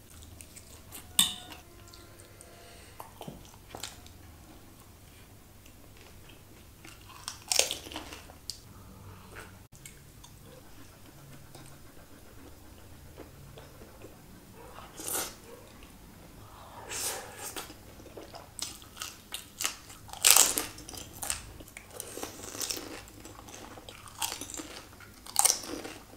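Close-miked chewing and biting of food, with crisp crunches here and there. It is sparse at first, and several louder crunches come in the second half.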